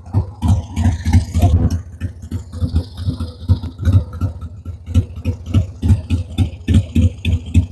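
Motorcycle engine idling at about 900 RPM, still warming up after sitting over the winter, with a steady, slightly uneven pulsing beat.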